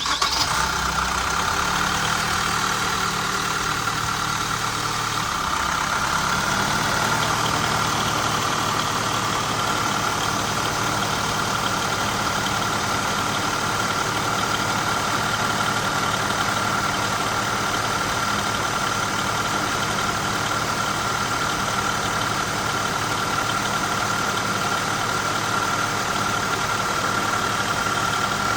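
LDV G10 engine starting and running at idle. It settles over the first several seconds, then runs steadily, with a steady high whine over the engine note.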